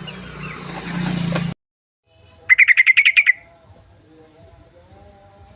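Yellow-vented bulbul (trucukan) call: a loud rapid chattering run of about ten notes, lasting under a second, about halfway through. Before it, a noisier stretch of mixed bird calls over a hum cuts off suddenly.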